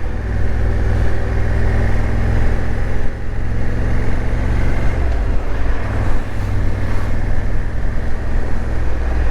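Motorcycle engine running at road speed, with wind rushing over the bike-mounted camera's microphone; the engine note dips briefly about three seconds in and shifts about five seconds in.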